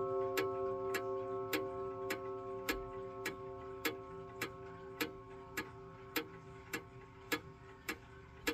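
Gustav Becker clock's Gloria gong ringing on as it slowly dies away after the strike, a cluster of steady tones, while the pendulum escapement ticks evenly, a little under two ticks a second.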